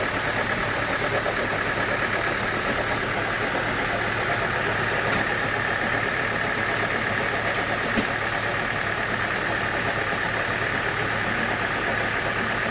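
Sawmill machinery running steadily, with one sharp tick about eight seconds in.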